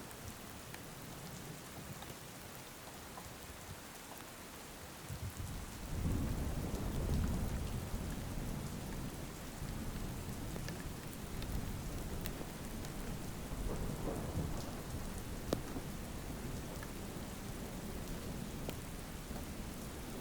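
Steady rain hissing and pattering. About six seconds in, a low rumble of thunder rolls in, loudest for the next couple of seconds, then lingers under the rain.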